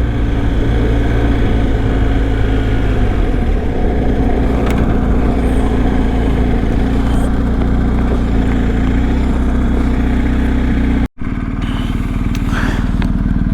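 Adventure motorcycle engine running steadily under way, with wind and road noise. The engine note drops a little about three and a half seconds in, and the sound cuts out for a split second near the end.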